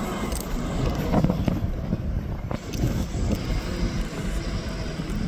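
Road traffic: a motor vehicle driving past, a steady low engine and tyre noise.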